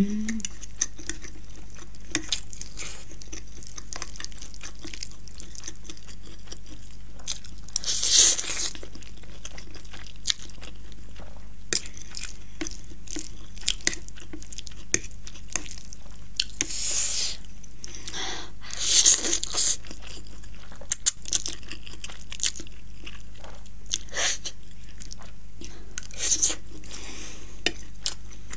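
Close-miked mouth sounds of eating sausage and spicy instant ramen: steady chewing with many small wet clicks, and a few louder slurps about 8, 17 and 19 seconds in. A steady low electrical hum runs underneath.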